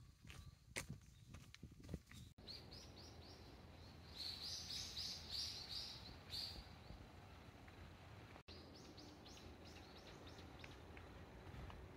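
A bird calling: three runs of quick, high repeated notes, about five a second, faint over a steady background hiss. A few footsteps on the trail in the first two seconds.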